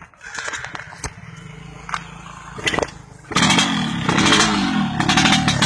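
Yamaha RX-King two-stroke motorcycle engine with an aftermarket 3v3 under-slung exhaust, idling, then revved hard in repeated throttle blips starting about three seconds in.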